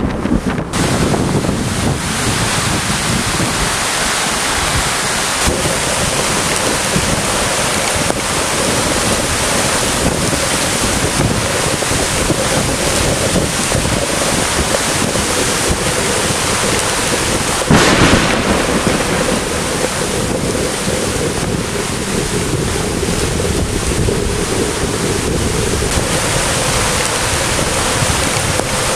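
Heavy rain in a thunderstorm with strong wind buffeting the microphone, a steady dense rush of noise. A brief louder burst comes about two-thirds of the way through.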